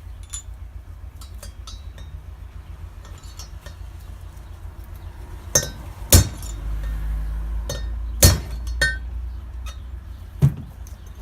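Hammer blows on metal, driving out a stuck part. There are light metallic clinks at first, then five loud, sharp strikes in the second half, over a steady low hum.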